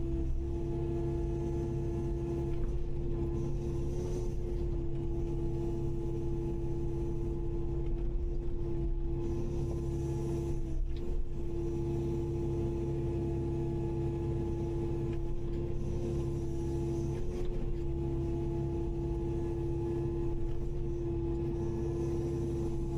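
Kubota KX080-5 excavator's diesel engine and hydraulics running steadily: a constant hum with a low rumble, briefly changing about eleven and seventeen seconds in.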